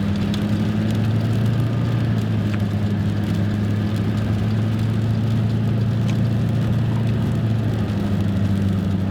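Truck engine and road noise droning steadily inside the cab while driving, a constant low two-note hum, with the heater fan blowing on defrost.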